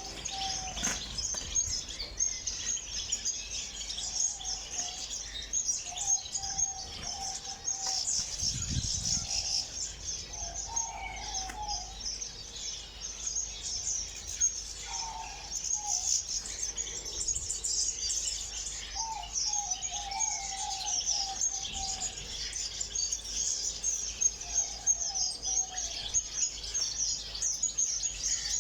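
A flock of caged ornamental birds chirping continuously in a dense, high-pitched chatter, with a lower call breaking in every few seconds.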